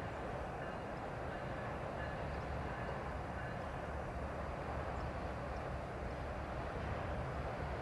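Freight train running: a steady, unbroken low rumble.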